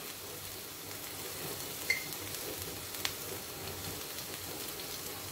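Blended spice paste sizzling gently in oil in a wok over low heat: a steady soft hiss, with two faint clinks about two and three seconds in.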